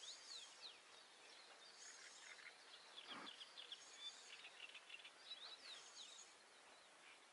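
Faint songbird chirps and quick trills, repeating every second or so over a quiet background.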